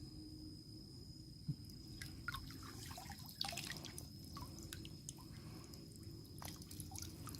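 Water dripping and splashing in quick, irregular drops, starting about two seconds in, over a steady high-pitched whine.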